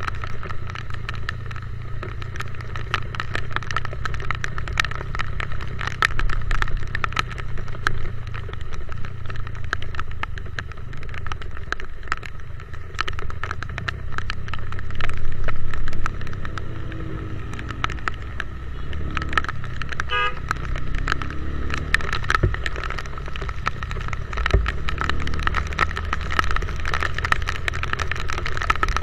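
Motorcycle running on the move in the rain: a steady engine hum under many small ticks from raindrops hitting the camera. A short horn beep sounds about twenty seconds in.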